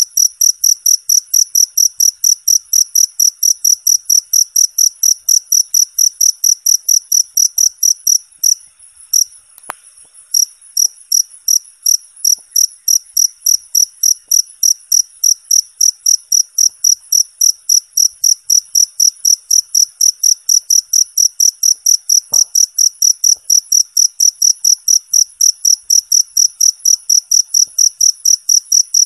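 A cricket chirping loudly and steadily, a clean, high-pitched pulse repeated about three times a second. The chirping breaks off briefly about eight to ten seconds in, then resumes.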